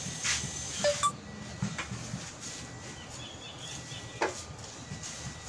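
A few sharp clinks and knocks of hard objects being handled, about four in all: two close together about a second in, one shortly after, and one more near the end. One of the first knocks rings briefly.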